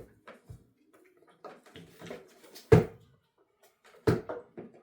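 A few sharp knocks and clatters, the loudest one a little under three seconds in and another about four seconds in, with fainter clicks between.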